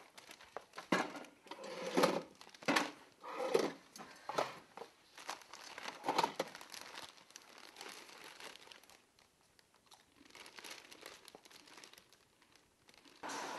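Irregular crinkling and rustling, strongest in the first half, then fading to faint rustles. A steady noise starts just before the end.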